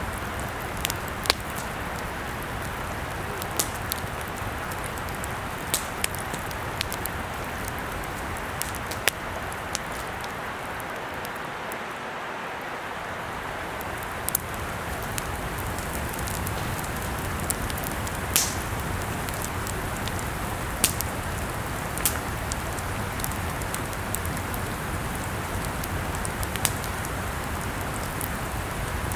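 Campfire burning: a steady hiss with scattered sharp crackles and pops, a few of them loud and irregularly spaced.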